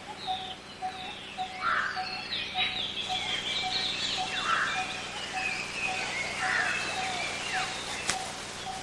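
Wild birds calling: a mix of chirps and whistled glides, with one low note repeated steadily about twice a second.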